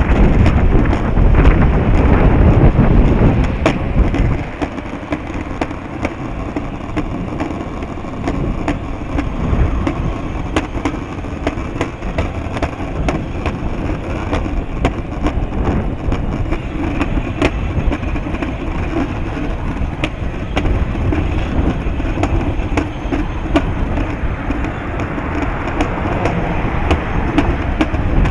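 Strong wind buffeting the microphone, a heavy low rumble that is loudest for the first few seconds and then settles, with many small clicks and rattles in the noise.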